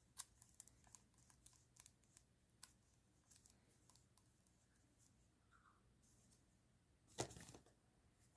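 Quiet, crisp clicks and snips of paper stationery and plastic packaging being handled and cut open, most frequent in the first three seconds, with one louder thump about seven seconds in.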